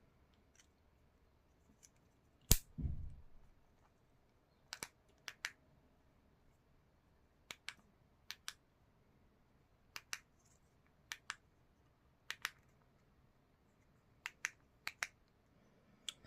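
Small sharp plastic clicks from handling a Honda Accord key fob, mostly in close pairs and spread out every second or so, with one louder knock about two and a half seconds in.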